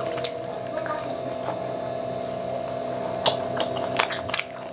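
Close-miked chewing and wet mouth sounds of someone eating chilli paneer by hand, with a few sharp clicks, one just after the start and several near the end, over a steady hum.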